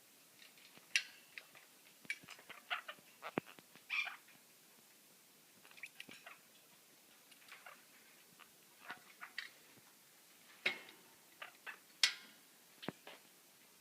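Pet parrots, a Quaker parrot and a sun conure, bathing: short scattered chirps mixed with small splashes and flutters, coming in irregular clusters.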